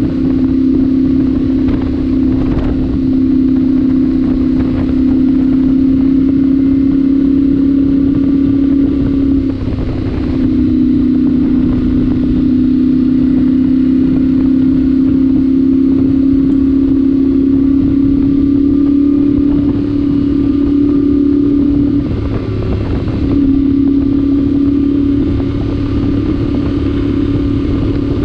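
Yamaha Ténéré 700's 689 cc parallel-twin engine running at a steady cruising speed, exhaust note through a stock muffler with the spark arrestor removed. The engine note breaks off briefly twice, about a third of the way in and again near the end, then picks up again.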